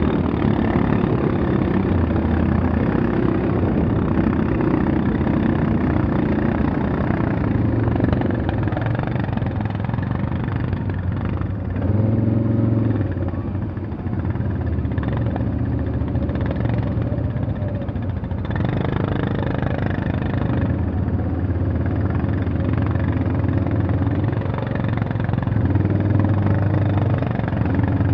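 A motor vehicle's engine running continuously, its note stepping up and down every few seconds as the speed changes.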